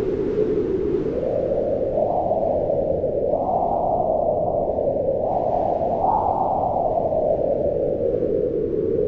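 Howling mountain wind: a steady rush whose pitch swells up twice and sinks slowly again.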